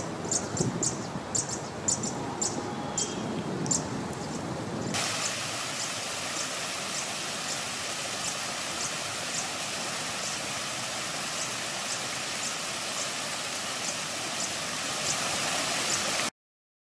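A small bird repeating a short, high-pitched call about two to three times a second, over a steady hiss of city background noise that grows louder about five seconds in.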